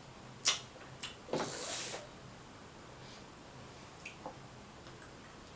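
Eating sounds from a seafood boil: a sharp click about half a second in and another about a second in, then a short hissing, slurp-like noise, then only a couple of faint ticks.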